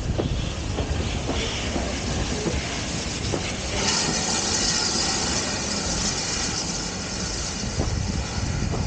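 A heritage train running along the track: a steady low rumble with irregular knocks and clicks from the wheels. About four seconds in, a loud steady hiss sets in over the rumble.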